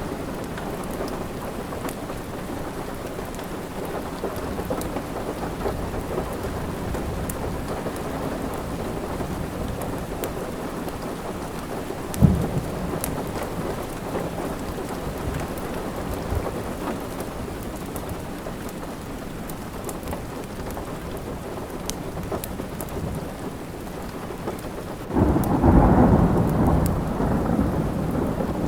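Steady rain on a surface during a thunderstorm, with faint scattered crackles of a fireplace. A sharp crack of thunder comes about twelve seconds in, and a louder rumble of thunder starts suddenly near the end.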